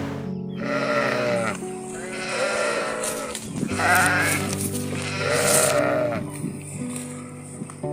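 Sheep bleating three times, each bleat about a second long and wavering, over background music.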